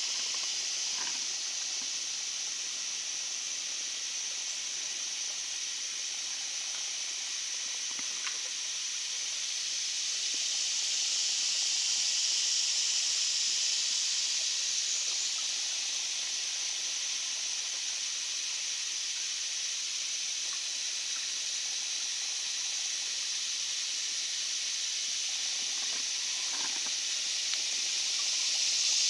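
Swamp insect chorus: a steady, high, shrill drone that swells louder around the middle and again near the end. A few faint clicks sound through it.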